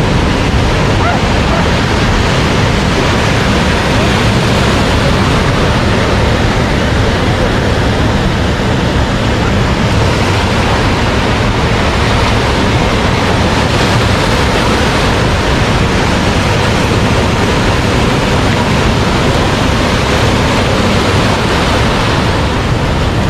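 Ocean surf, steady and loud, with wind on the microphone.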